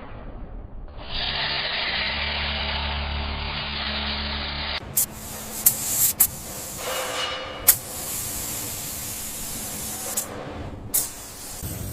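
A power tool running steadily with a low hum, then, after a sudden cut, a spraying hiss broken by several sharp clicks.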